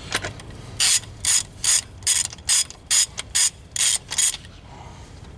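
Half-inch-drive hand ratchet backing off a wheel lug nut: about nine quick bursts of clicking, about two and a half a second, stopping a little after four seconds in.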